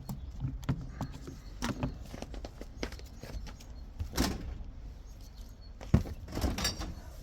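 Scattered metallic clicks and knocks from a disassembled five-speed robotized gearbox as its input shaft and parts are turned and handled by hand, with a sharp knock about six seconds in.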